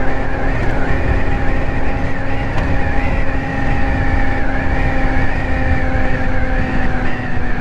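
Ice Bear Hawkeye 150cc scooter's GY6 four-stroke single-cylinder engine running steadily while riding at cruising speed, with a dense low rumble under a steady engine tone.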